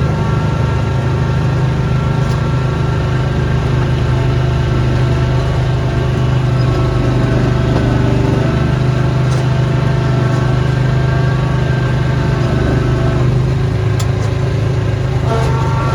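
Small engine of a snow-clearing machine running steadily at constant speed, with a few brief clicks.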